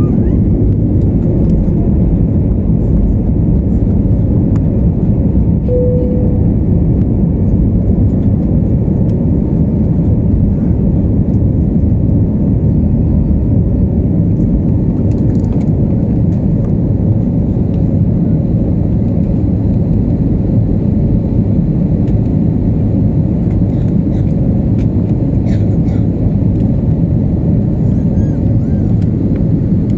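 Steady low roar of an airliner's engines and rushing air, heard inside the passenger cabin during takeoff.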